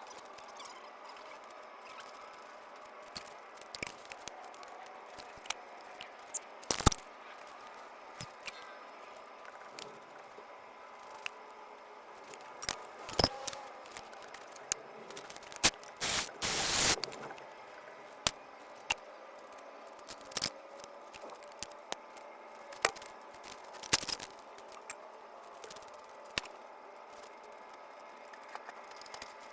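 Scattered small clicks, taps and light rattles of hard objects being handled, with a longer scraping stretch of about a second around sixteen seconds in, over a faint steady hum.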